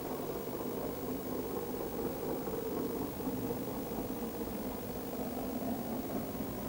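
Great Western Castle-class steam locomotive Clun Castle working a train on the main line: a steady rumble of engine and train without a break.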